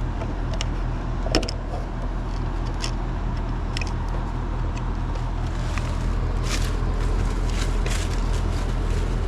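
Steady low machine hum of running equipment, with small metallic clicks and a few brief rustles from pliers working on a capacitor's wiring as its bleed resistor is removed.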